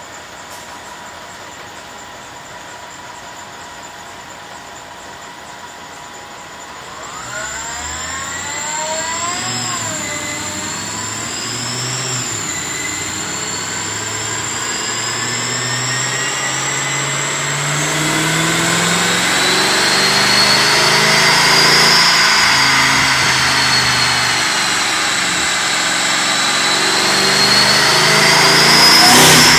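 Mercedes-Benz E55 AMG's supercharged 5.4-litre V8 on a chassis dyno: idling at first, a few quick revs about seven seconds in, then a long pull with the engine note and high supercharger whine climbing in pitch and getting louder, easing off briefly near the end before climbing again. A sudden sharp noise comes just before the end.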